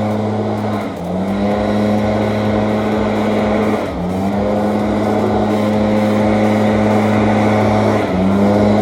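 Small lawn equipment engine running at high revs. Its pitch dips three times, each briefly, and climbs back up each time as the load comes on and eases off.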